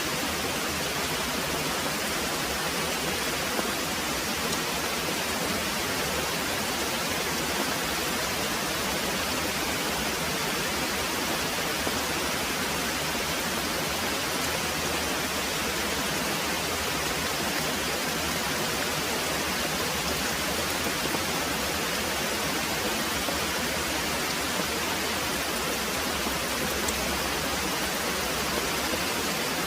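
Very heavy rain falling steadily, an even, unbroken hiss with no distinct drops or thunder.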